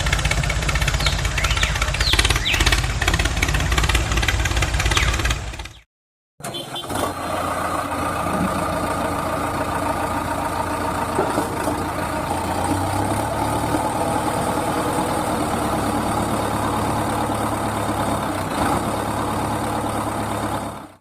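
A motor running steadily. It cuts out abruptly for a moment about six seconds in, then runs on.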